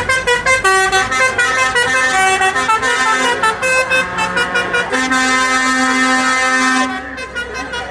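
Vehicle horns sounding. First comes a quick run of changing notes, then one long, steady horn blast starting about five seconds in and lasting about two seconds.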